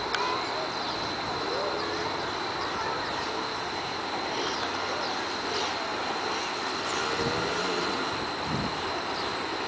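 Motocross dirt bike engines revving, their pitch rising and falling, over a steady noisy background with a constant high whine.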